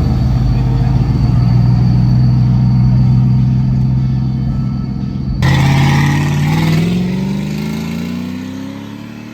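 A car engine running loud and steady. About five seconds in, a car accelerates hard, its engine note rising as it fades into the distance.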